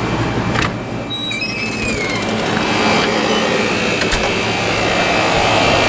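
Vintage room air conditioner running steadily: a rush of fan air over a low compressor hum. About a second in there is a brief louder sound with a short falling squeak.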